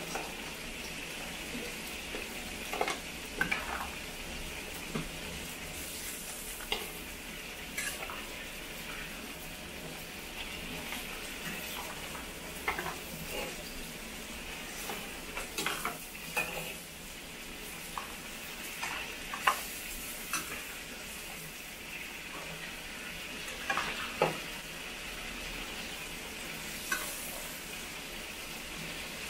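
Chilli crab sauce sizzling in a hot wok while a spatula scrapes and knocks against the wok and a stainless-steel pot as crab pieces are lifted across, giving irregular clinks over a steady sizzle.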